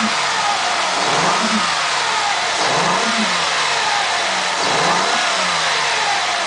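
Mazda engine running with a weird recurring "doot" noise from under the hood: a tone that rises and falls over and over, about every one and a half to two seconds.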